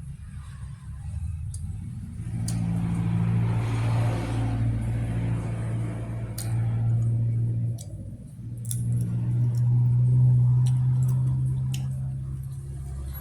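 A motor vehicle's engine droning as a low steady hum that grows louder and fades away twice, with a few faint clicks.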